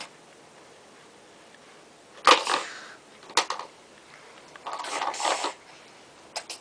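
Toys being handled and dropped into a toy garbage truck: a clatter about two seconds in, a single sharp click a second later, then a longer rattle near five seconds, with small ticks near the end.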